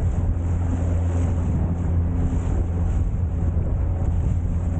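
Motorboat engine running at a steady hum, with wind buffeting the microphone and rushing water.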